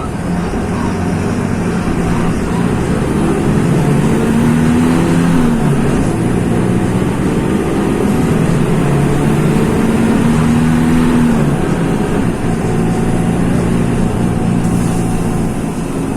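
Mercedes-Benz OF-1724 city bus's OM-926 LA six-cylinder turbo-diesel engine running under load, its revs climbing and then dropping away twice, about five and eleven seconds in.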